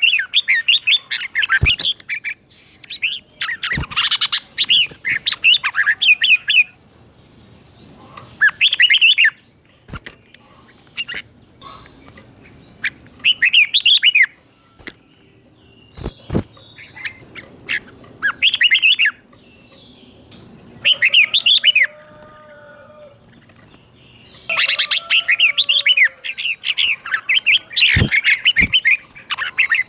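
Red-whiskered bulbul singing: short, quick warbled phrases come every few seconds with quiet gaps between them, and run together into a longer stretch of song near the end.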